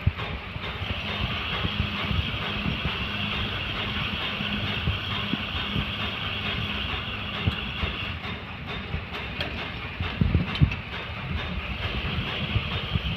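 Ceiling fan running steadily: an even hiss of moving air over a faint motor hum, with irregular low thumps of the airflow buffeting the microphone.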